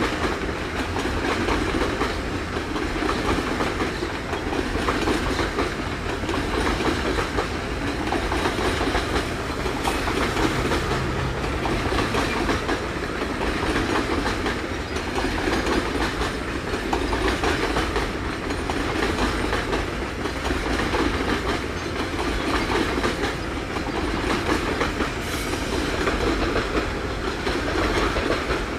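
Heavy loaded freight train rolling past, its wagon wheels clattering steadily over the rail joints.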